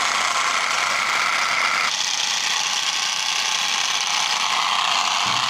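Small electric motor of a homemade model machine running steadily with a whirring hum, its tone changing abruptly about two seconds in.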